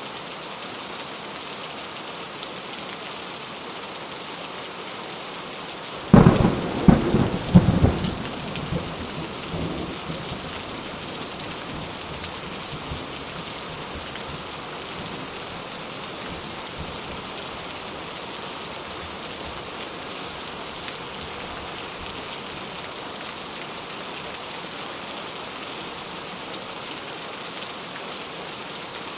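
Steady rain falling, with a sudden loud thunderclap about six seconds in that cracks several times and rumbles for a few seconds before fading back under the rain.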